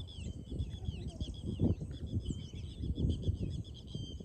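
Several birds chirping and trilling, many short high calls overlapping, over a low, uneven rumbling.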